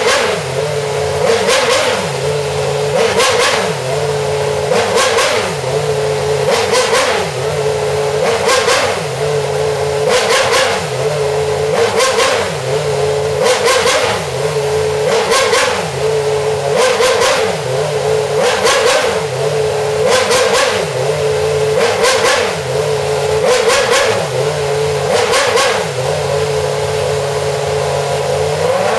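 Alpine Formula 1 car's engine revved in short, regular blips, about one every two seconds, the pitch rising and falling each time over a steady high idle.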